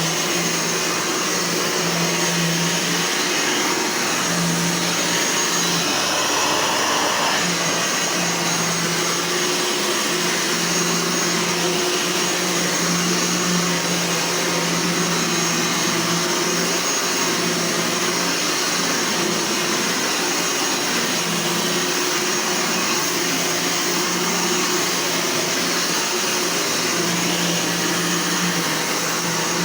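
Eureka Powerline Gold 10-amp vacuum cleaner running steadily: a continuous motor hum under the rush of airflow.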